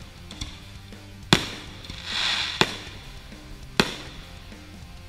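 Aerial firework shells bursting: three sharp bangs about a second and a quarter apart, with a short hiss between the second and third.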